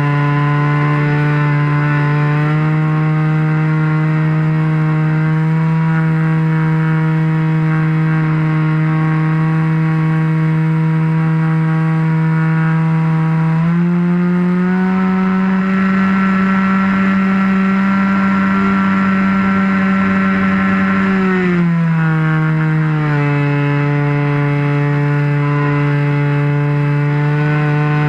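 RC model airplane engine running steadily in flight. About halfway through it is throttled up to a higher pitch, holds there for some seconds, then drops back to its earlier cruise setting.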